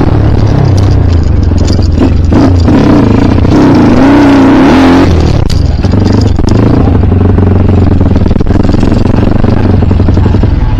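Off-road motorcycle engine running loudly, revved up and down about halfway through, then held at a steadier speed.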